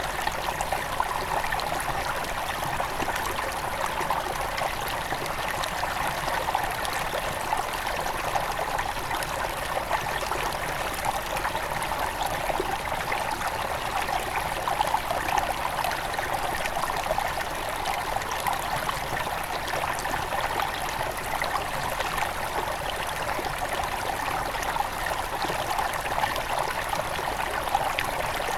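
Small forest river at its headwaters, flowing and trickling steadily over stones, with a bright babbling splash.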